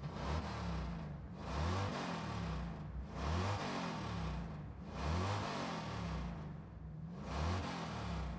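Racing engines running loud, the sound swelling and the pitch rising and falling about four times in a row.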